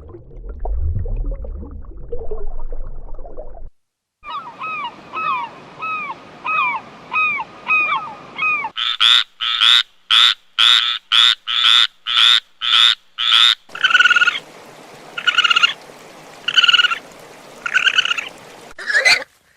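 A series of repeated animal calls. The first run is short pitched calls with a falling bend, about two a second. Then come sharper, faster pulsed calls, and then slower calls about one a second.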